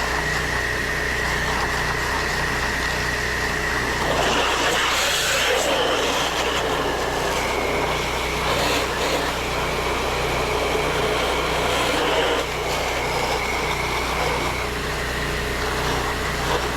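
Engine of a pressure-washing rig running steadily, with a steady high-pitched whine over it. About four seconds in, a rushing hiss of spray swells for a couple of seconds.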